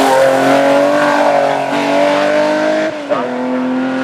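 Porsche 911 Carrera RSR's flat-six racing engine pulling hard, heard onboard, its pitch climbing slowly. About three seconds in, the pitch drops sharply and the engine runs on at a lower note.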